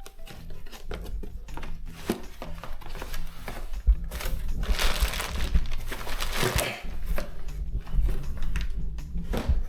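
Packaging rustling and the new throttle body being handled: scattered clicks and knocks, with a louder stretch of rustling in the middle.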